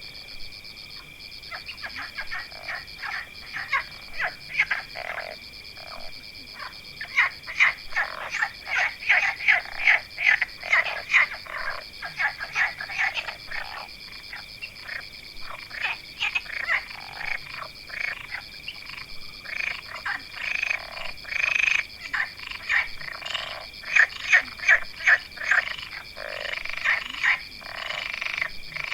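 A dense chorus of animal calls: many short calls overlapping in quick succession, growing busier after about seven seconds, over a steady high-pitched drone.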